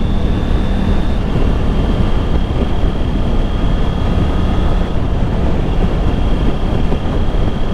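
Motorcycle on the move: steady wind rush and engine and road noise, with a faint steady high whine on top.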